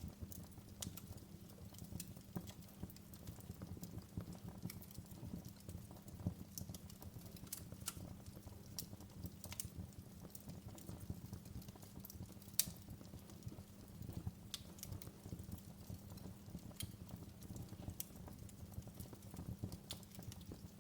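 Wood fire in a fireplace crackling: irregular sharp pops and snaps over a low steady rumble of the burning fire, with one louder pop about midway.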